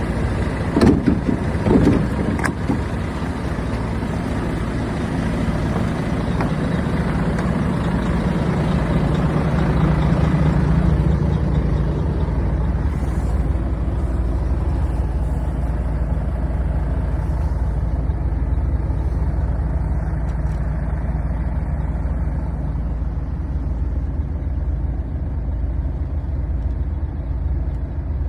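Volvo FH540 truck's 13-litre straight-six diesel running, with two louder bursts about a second in, then a steady low drone that swells for a few seconds before settling.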